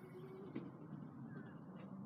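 Faint small dirt bike engine running steadily; its pitch drops about half a second in.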